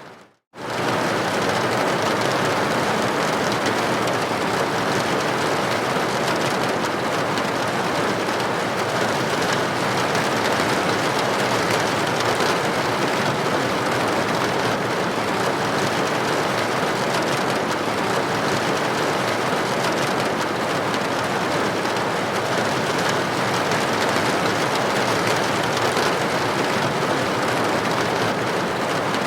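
Steady rain against a building window, an even hiss of droplets. It cuts out for a moment just after the start, then runs on unchanged.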